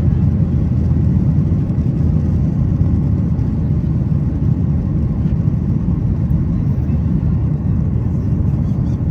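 Cabin noise inside a Boeing 737-900ER airliner: a steady, loud low rumble of the engines and airflow.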